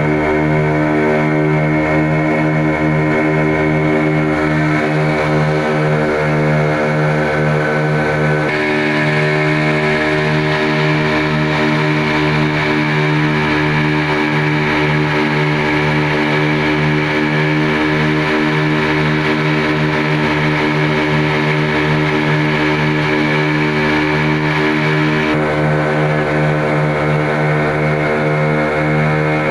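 A boat's inboard engine running at a steady cruising speed, a loud droning hum with a throbbing pulse underneath. The upper part of the sound swells about eight seconds in and eases back a few seconds before the end.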